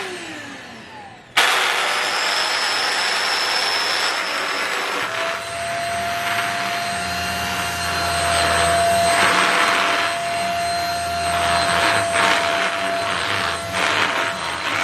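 Handheld mattress vacuum cleaner: a brief burst with a falling whine in the first second, then about a second and a half in the motor switches on and runs loud and steady, rushing air with a thin steady whine over it.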